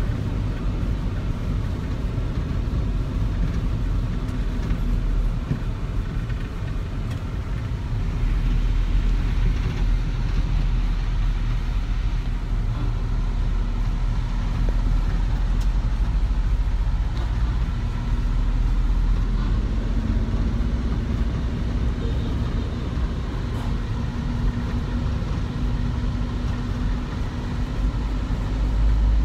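Road vehicle running with a steady low rumble of engine and road noise.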